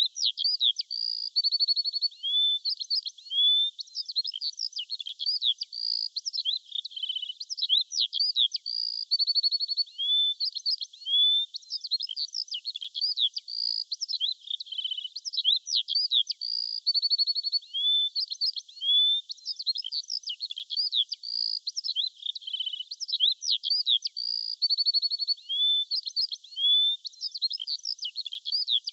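Songbirds chirping and singing without pause: many short high chirps, quick rising and falling whistles and buzzy trills overlapping, with the same phrases coming back every several seconds.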